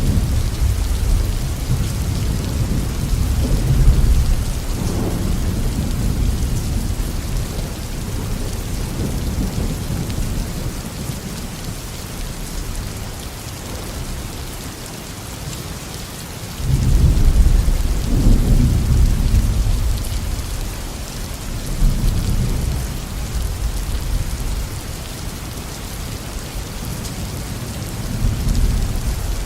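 Steady heavy tropical rain falling on a garden, with rolling thunder rumbling underneath. A loud peal of thunder breaks in about halfway through and fades over several seconds, with smaller rumbles after it.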